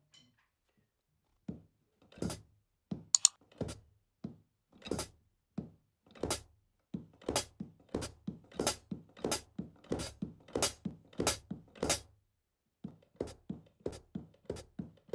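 Hi-hat pedal worked by the left foot, with heel taps and the closing hi-hat cymbals: a string of light clicks and thuds, sparse at first, then steady at about three a second, with a short break near the end.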